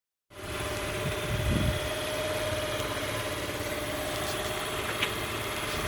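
Kymco People S 50cc scooter engine idling steadily, with a slight swell about a second and a half in.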